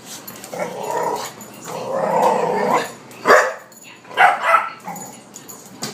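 Pit bull barking and growling in several bursts, with short sharp barks in the second half.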